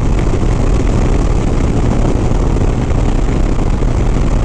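Steady wind rush over the microphone together with the low drone of a Harley-Davidson Sport Glide's V-twin engine, cruising at highway speed.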